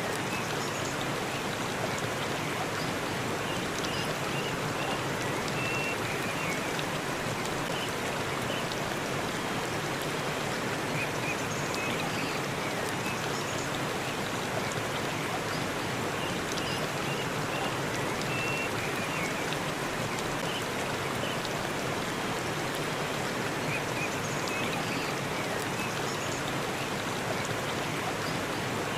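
Forest waterfall: water falling and rushing in a steady, unbroken stream.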